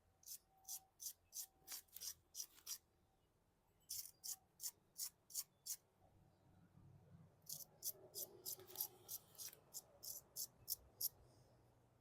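Short, quick scraping strokes by hand, about two to three a second, in three runs with short pauses between, like a brush or small tool rubbed back and forth on metal.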